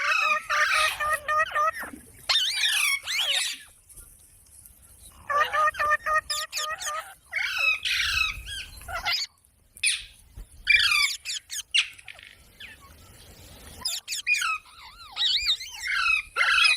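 Pet parrot chattering and calling in high-pitched, wavering bursts, about six of them with short pauses between.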